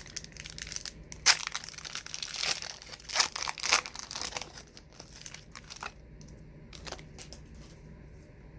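Wax-paper wrapper of a 1990s trading card pack being torn open and crinkled: a dense run of crackling for about six seconds, then quieter with a few faint clicks.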